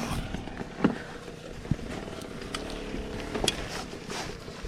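Dirt bike engine idling low and steady, with a few sharp knocks, at about one, two and three and a half seconds in.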